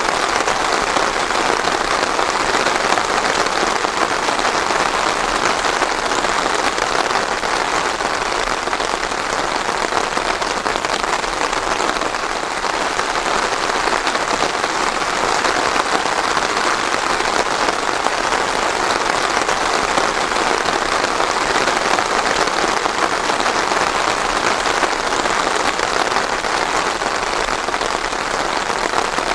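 Steady rain falling on a surface, an even dense patter without thunder.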